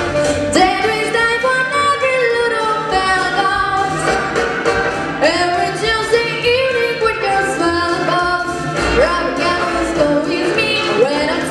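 Music: a song performed with a singing voice over instrumental accompaniment, the vocal line gliding up and down without clear words.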